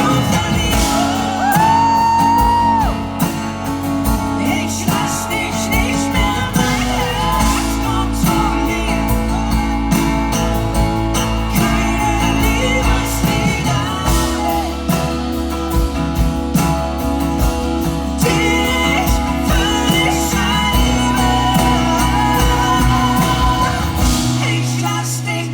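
A live pop band playing a song with drums, bass and guitar, with a held sung line over it. Near the end the drums drop out, leaving a sustained low note.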